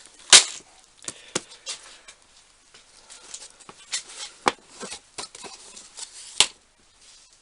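Handling noise from a parts organiser box: a sharp click about a third of a second in, then scattered clicks and light rattling of small metal parts.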